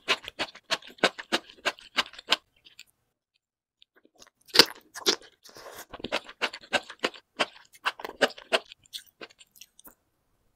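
Close-miked chewing of sauce-coated enoki mushrooms: a quick run of crisp chewing clicks, a pause of about two seconds, then one loud bite and a second run of chewing that stops shortly before the end.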